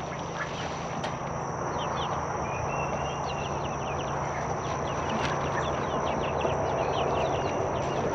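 Many short bird chirps and a brief whistle, over a steady rushing noise and a thin, constant high-pitched whine.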